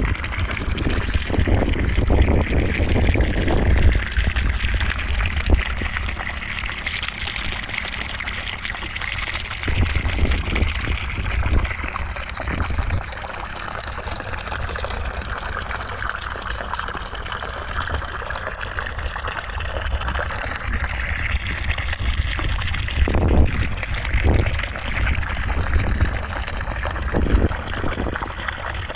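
Continuous white noise for sleep: an even rushing hiss, much like running water, with a low rumble that swells now and then.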